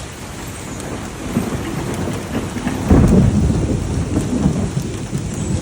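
Thunderstorm: steady rain with thunder rumbling. The thunder swells suddenly to its loudest about three seconds in and rolls on.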